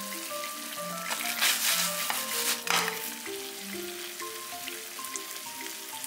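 Glazed chicken sizzling in its sauce in a nonstick frying pan, the sizzle swelling loudly for about a second and a half starting a little over a second in, over light background music.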